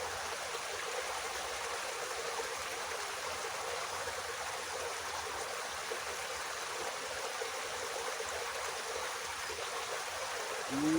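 Water flowing steadily in a small irrigation ditch, an even rushing trickle.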